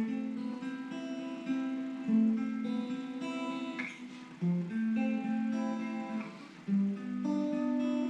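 Acoustic guitar playing an instrumental introduction, picked and strummed chords with no singing.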